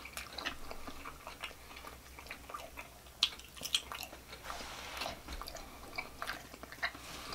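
A person chewing food with wet mouth clicks and smacks at irregular intervals.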